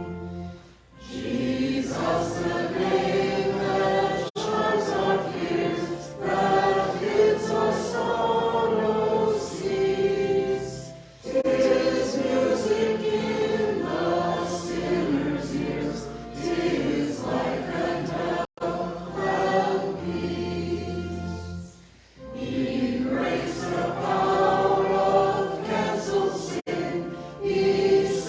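Choir singing sacred music in long phrases, with short breaths between phrases about ten seconds apart.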